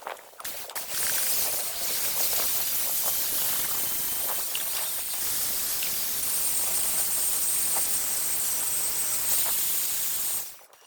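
Compressed air spraying in a steady hiss that starts about a second in, carries a faint high whistle in its second half, and cuts off sharply near the end.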